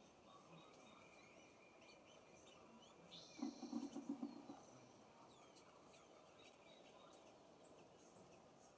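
Faint outdoor birdsong: scattered short high chirps and quick sliding calls from small songbirds, with a short falling note repeating about twice a second near the end. About three and a half seconds in comes a louder low, rapidly pulsing sound lasting about a second.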